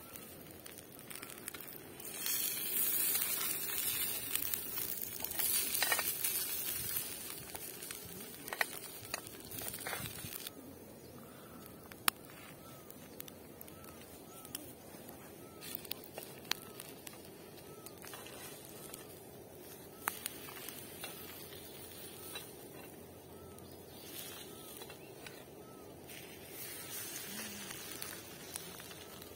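Egg and pancake frying on a small griddle pan over a portable gas stove: a steady sizzle that swells much louder for several seconds about two seconds in, with a few sharp clicks of a utensil on the pan.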